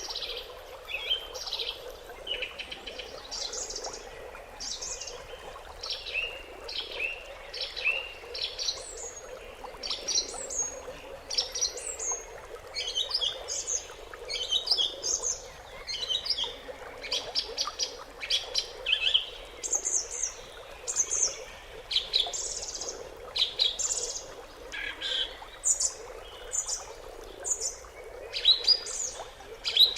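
Small birds chirping and singing without a break: many short, quick, high notes, often falling in pitch, from several birds at once.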